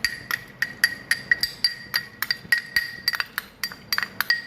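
A spoon stirring cornflour into a bowl of sauce mixture, clinking against the bowl about four or five times a second, each tap leaving a short ring.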